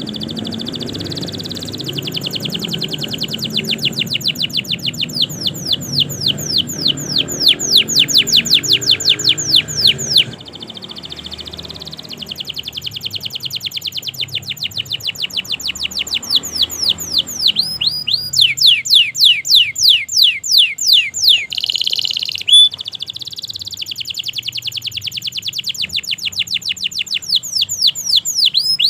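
Domestic canary singing a long, continuous song: runs of rapid repeated falling whistled notes, phrase after phrase. It switches to a brief dense, buzzy rolled phrase about three-quarters of the way through.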